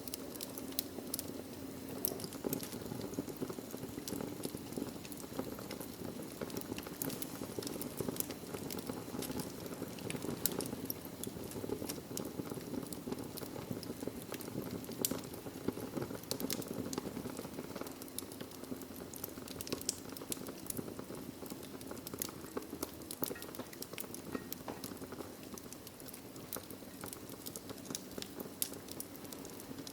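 Wood fire burning in a fireplace: a steady low roar of flames with frequent small sharp crackles and pops from the burning logs.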